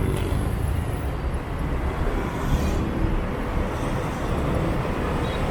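Motorbike traffic heard from a moving scooter: a steady rumble of engines, tyres and wind, with no single sound standing out.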